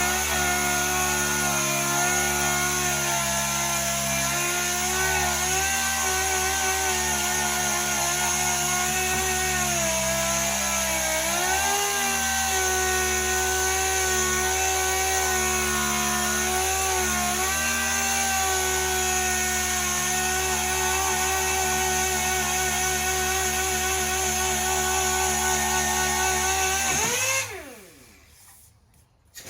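Power sander running steadily as it sands paint off car body panels, its pitch dipping briefly a few times as it is pressed harder into the work. Near the end it is switched off and winds down, then starts up again.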